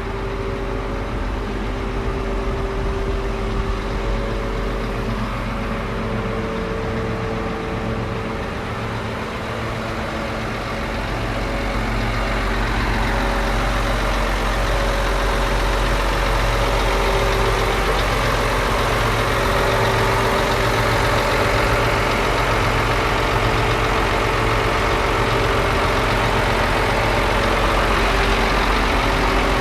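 Scania P114 340 lorry's six-cylinder diesel engine running steadily at idle. About twelve seconds in it gets louder and stays so, with more hiss and clatter in the higher range.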